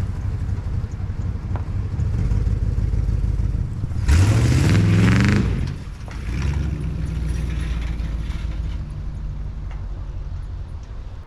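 Vehicle engine running, revving up sharply about four seconds in and easing off again a couple of seconds later, then running steadily as it fades slightly.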